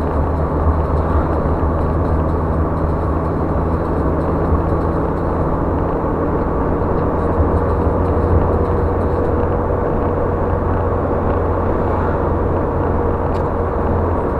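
Steady road and engine noise heard inside a car cabin while driving at a constant speed, a low hum under tyre noise.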